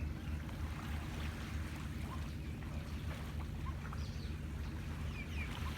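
Sea waves washing on the shore, heard as a steady low rumble, with a few faint, short bird chirps over it.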